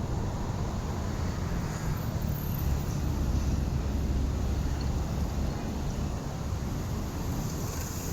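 Wind buffeting the microphone outdoors: a steady low rumble that swells for a couple of seconds near the middle.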